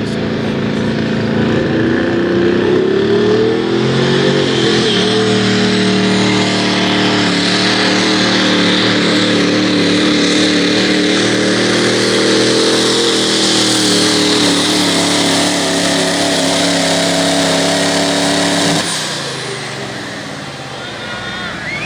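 Pro stock diesel pickup truck engine running at full throttle under heavy load while pulling a sled. Its pitch climbs over the first few seconds and then holds steady. The engine note drops away suddenly near the end.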